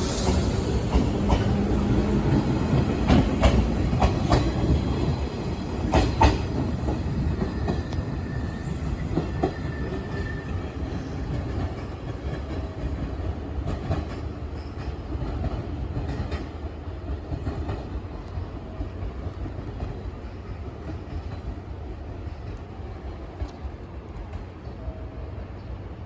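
Electric commuter train pulling out of the station. Its wheels clack sharply over rail joints several times in the first few seconds, then the running noise fades steadily as it moves away.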